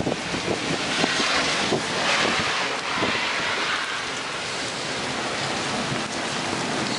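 Heavy rain pouring down in a thunderstorm: a steady hiss that swells a little in the first few seconds.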